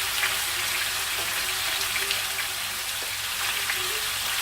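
Chicken pieces frying in hot oil in a non-stick pan: a steady sizzle with scattered crackles and pops as the skin browns and the juices come out.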